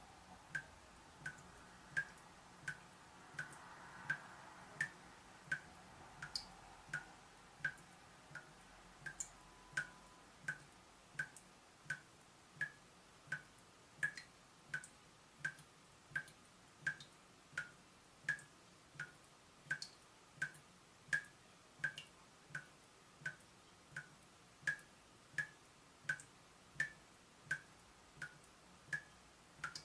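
Water dripping from a leaking tap, a steady train of drops about one and a half a second, each a short plink.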